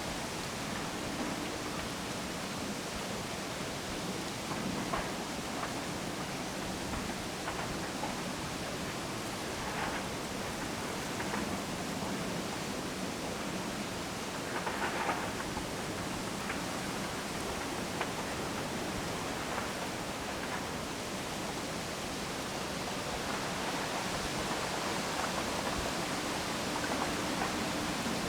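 Strong wind rushing steadily through the trees, with a few faint short sounds over it.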